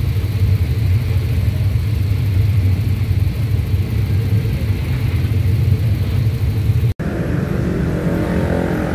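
Passenger coaches of a State Railway of Thailand commuter train rolling past close by, a steady low rumble of wheels on the track. About seven seconds in, the sound cuts off abruptly and gives way to a steady engine drone.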